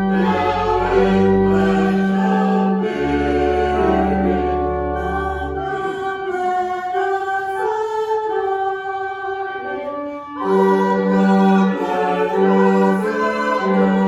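Choir singing with instrumental accompaniment, sustained chords over a low bass line. The bass drops out about six seconds in and comes back at about ten and a half seconds.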